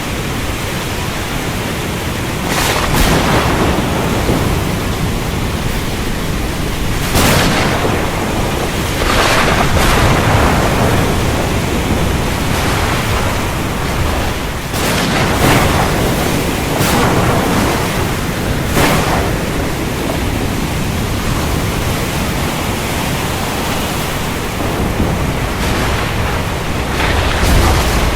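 Heavy rain falling steadily, broken by a series of sharp thunder cracks, about ten of them, several in quick pairs.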